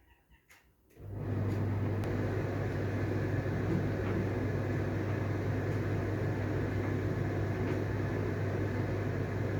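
A steady machine hum with a low drone near 100 Hz and a hiss over it, switching on suddenly about a second in and running evenly after that.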